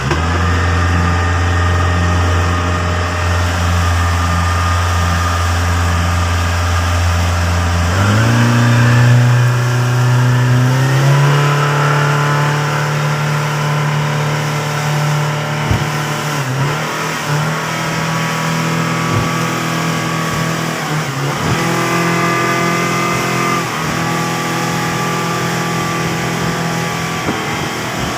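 Fishing boat's engine running steadily, its pitch stepping up about eight seconds in and again a few seconds later as it is throttled up, then holding with small changes in speed.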